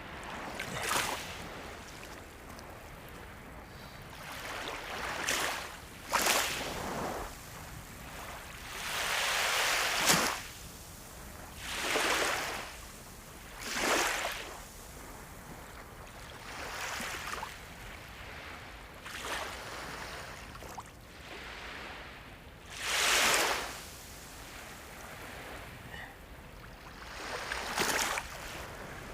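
Sea waves breaking and washing in, a hiss that swells and fades every few seconds, about ten times, over a steady background of surf. The biggest waves come about ten seconds in and near two-thirds of the way through.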